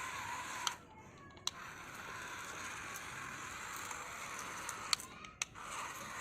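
Small DC gear motor of a homemade remote-control tractor whirring steadily, cutting out twice briefly with sharp clicks as it is switched off and on.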